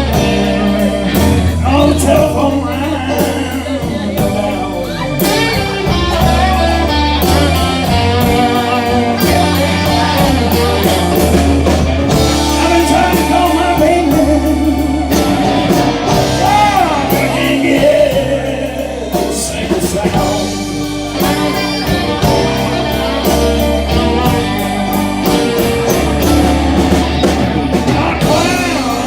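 Live blues band playing a slow blues: electric guitar with bent, wavering notes over bass and drums, with singing.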